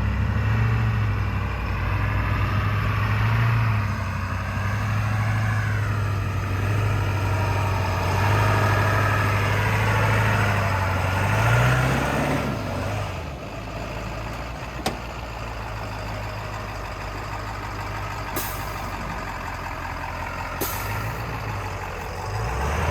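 Off-road 4x4's engine running at low revs while crawling a steep, muddy rock obstacle. It speeds up briefly about halfway through, then settles lower, with a few sharp knocks near the end.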